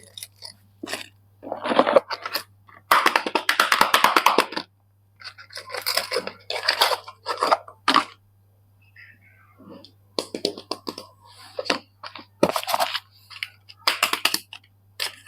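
Soap packaging being handled and unwrapped by hand: crinkling, crackling wrapper noise in bursts of one to two seconds, with a quiet pause around the middle. A faint steady low hum sits under it.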